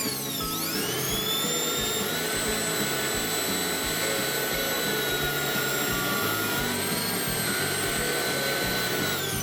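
Restored Makita electric blower running with a steady high whine. About a second in its pitch dips and climbs back up to speed, and it dips again at the very end.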